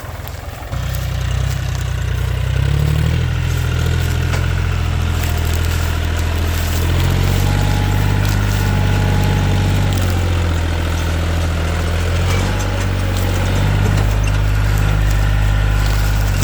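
John Deere 5105 tractor's three-cylinder diesel engine running under load while pulling a loaded sugarcane trolley. It gets louder under a second in, and its note shifts several times as the revs change.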